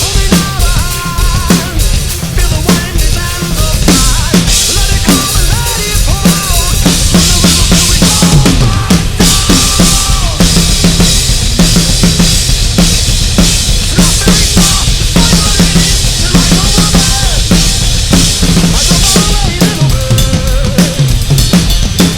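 Rock/metal drum kit played hard over the band's recorded song: a steady kick drum, snare hits and a constant wash of cymbals, with guitars and singing in the backing track.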